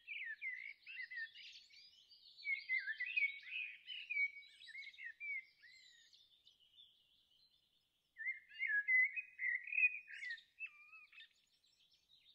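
Songbird birdsong: rapid warbling phrases of quick up-and-down notes, in two bouts with a short pause between.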